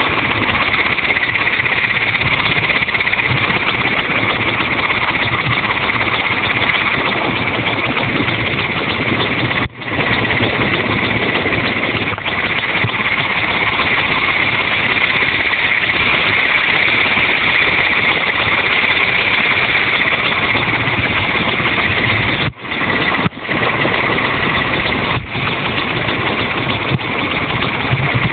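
Helicopter engine and rotor noise, a steady loud drone with a high whine in it, broken by a few split-second dropouts.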